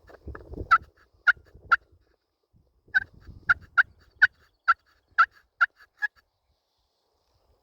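Turkey calls: a series of about eleven short, sharp notes in two quick runs, with a pause of about a second between them.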